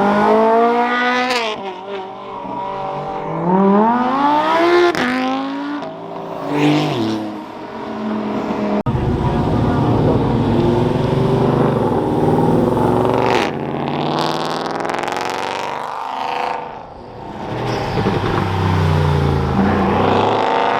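Car engines accelerating hard away from a car meet: several sharp rises in pitch through the gears, each dropping back at a shift, in the first few seconds. From about nine seconds a louder, rougher-sounding car exhaust takes over, revving and rising again as it pulls past.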